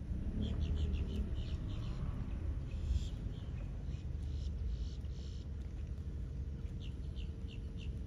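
Bird chirping in short repeated notes, a quick run of about six near the start and four near the end, with a few short hissy bursts in the middle, over a low rumble.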